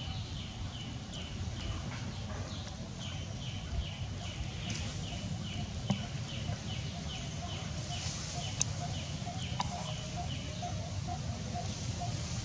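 A bird calling: one short falling chirp repeated about three times a second, joined about halfway through by a lower note repeated at the same pace, over a low steady rumble of outdoor noise.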